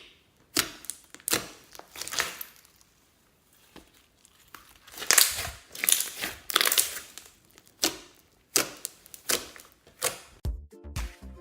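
Slime mixed with makeup and glitter being squeezed and pressed by hand, giving crackly, popping bursts about once or twice a second. Music with a dance beat starts near the end.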